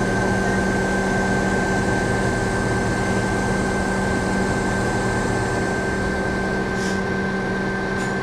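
Heavy diesel engine of a crane running steadily at constant speed, with a steady low hum and a thin high whine over it.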